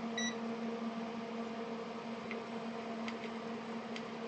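Steady low electrical hum over faint hiss, with a short high beep just after the start and a few faint ticks.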